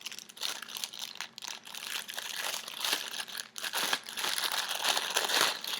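Packaging being unwrapped by hand: an irregular crinkling and rustling with many sharp crackles, busiest in the second half.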